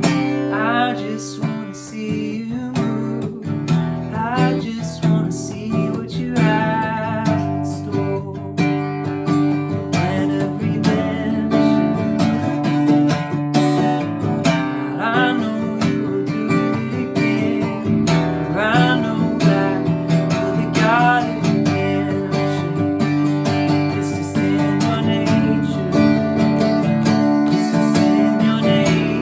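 Acoustic guitar strummed steadily, with a man's voice singing long, wavering notes over it at intervals.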